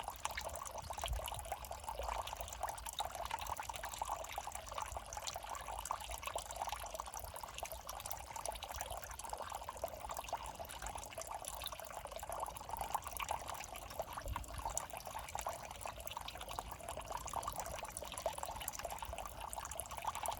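Shallow water babbling steadily along a small, foul urban drainage ditch: a continuous trickle with a fine, bubbling crackle.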